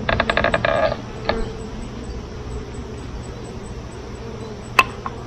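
A honeybee buzzing loudly close to the microphone for about a second, over a steady low hum. A single sharp click comes near the end.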